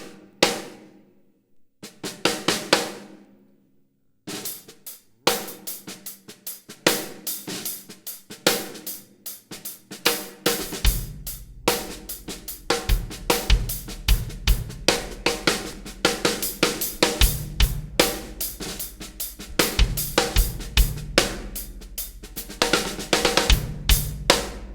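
Acoustic drum kit fitted with Trutone dampeners to control overtones, played as a sound demo. It opens with two single hits left to ring out, then from about four seconds in settles into continuous playing across snare, toms, kick, hi-hat and cymbals.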